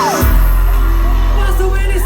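Live pop concert music played loud through a hall sound system: a voice slides down in pitch at the start, then a heavy bass line comes in about a quarter second in under singing.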